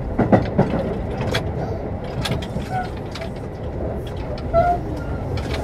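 Keio 9000 series electric train heard from inside a motor car while running: a steady rumble of wheels on rail, with scattered sharp clicks.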